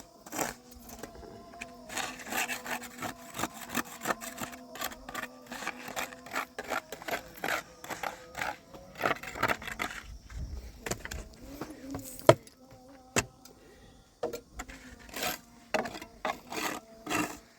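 Rapid, irregular knocks and scrapes, with a few louder single strikes about twelve and thirteen seconds in, over a faint steady hum.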